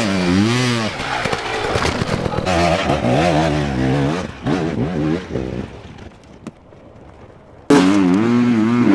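Enduro dirt bike engine being revved hard again and again, its pitch rising and falling in quick blips. It drops off to a quieter run past the middle, then comes back loud and revving all at once near the end.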